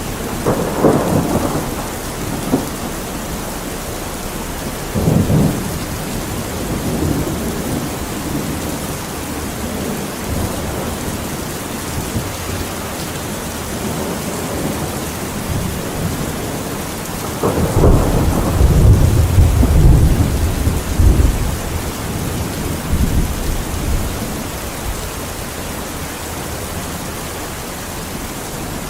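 Steady rain with thunder. Short rumbles come just after the start and again about five seconds in. A longer, louder roll of thunder starts about seventeen seconds in and dies away over some five seconds.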